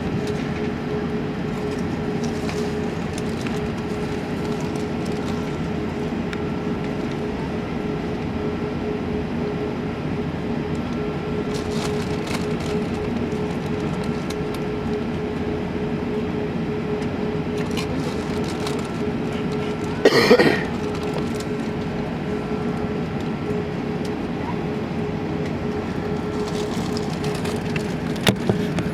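Steady cabin hum of an Airbus A380 on the ground before takeoff, its engines and air systems running with a constant low drone and a faint whine, heard inside the lower-deck cabin. A brief louder sound breaks in about two-thirds of the way through, and there are a couple of faint clicks near the end.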